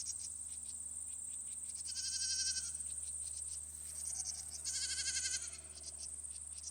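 Goat bleating twice, two short wavering high-pitched bleats a few seconds apart, over a steady high-pitched hiss.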